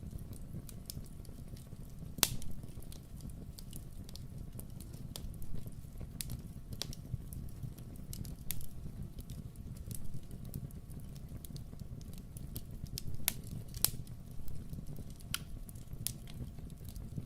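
Wood fire crackling in a fireplace: scattered sharp pops and snaps over a steady low rumble of the flames, with a loud pop about two seconds in and a few more near the end.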